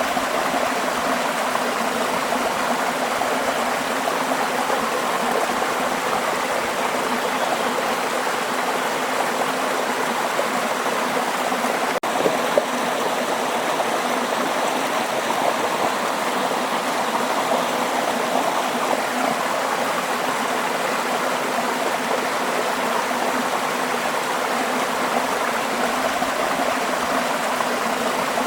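Flowing water running steadily and evenly, like a stream, with one brief click about halfway through.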